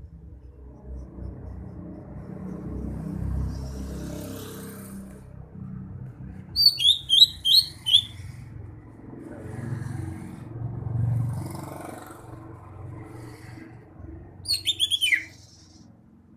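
Green leafbird (cucak hijau) singing: a quick run of about five sharp high chirps partway through, and a short falling run of notes near the end, over a low steady rumble.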